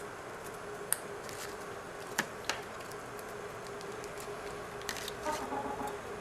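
A Quaker parrot handling a playing card, its beak and feet making a few sharp clicks and light taps over a steady faint hum. There are single clicks about a second in and twice a little after two seconds, then a cluster of softer taps near the end.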